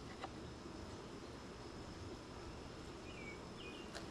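Faint outdoor ambience: a steady insect buzz and a high faint whine, with a few short bird chirps near the end and a couple of light clicks.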